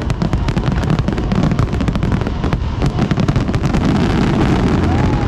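Aerial fireworks going off in a dense, unbroken barrage: many sharp bangs and crackles a second over a continuous low rumble of booms.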